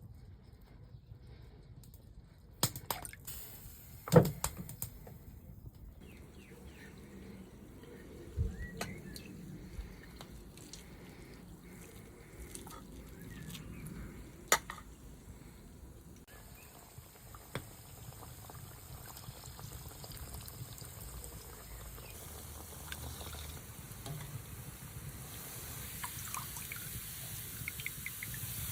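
Kitchen work sounds: scattered knocks and clicks over a faint background hiss, with the hiss growing louder near the end.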